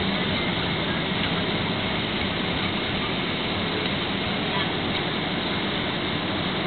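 Steady rushing cabin noise of a Boeing 767 airliner's jet engines and airflow, heard from inside the passenger cabin, even in level throughout.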